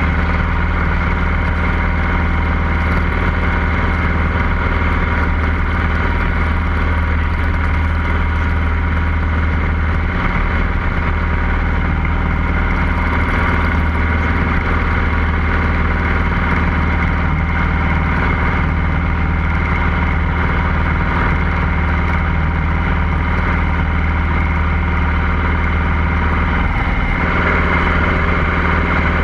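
Cessna 150L's Continental O-200 four-cylinder air-cooled engine and propeller running steadily at an even pitch. The tone shifts slightly near the end.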